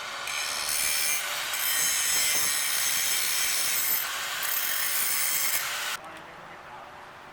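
A power tool cutting through steel exhaust pipe: a loud, steady, high-pitched screech that runs for about six seconds and then stops abruptly.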